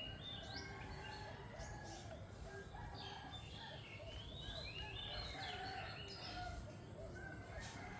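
Several birds calling, with many short stepped chirps throughout and some lower arched notes underneath, over faint outdoor background noise.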